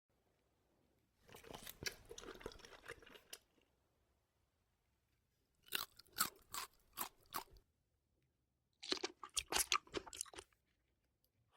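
Crunchy chewing sounds in three short bouts, each a run of crisp crackles, with silent gaps between them.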